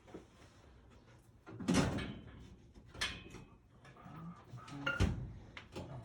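Three loud knocks with some rattling after each, about a second and a half, three and five seconds in: things being handled and set down.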